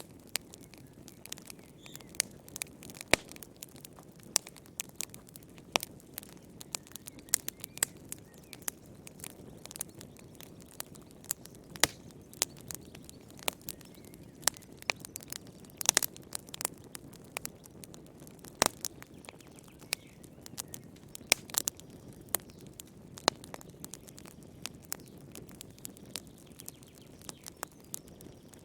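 Wood fire in a fireplace crackling, with frequent irregular sharp pops and snaps over a low, soft rumble of burning.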